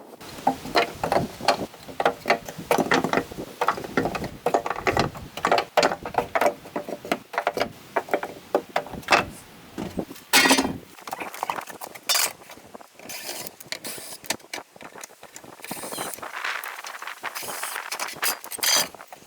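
Irregular clinking, clattering and knocking as tools, screws and boards are handled while a homemade wooden cabin is taken apart.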